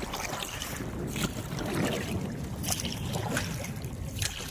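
Water rushing and lapping around a small boat gliding along, with wind noise on the microphone and a few faint splashes.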